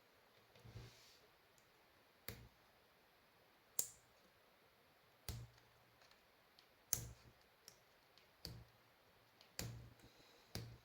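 Faint sharp clicks, each with a light knock under it, about eight of them a second or so apart, like small parts or tools being handled on a workbench.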